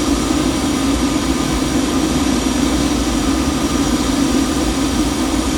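Boeing C-17 Globemaster III's four turbofan jet engines running steadily at a constant pitch, with a low rumble and a faint high whine.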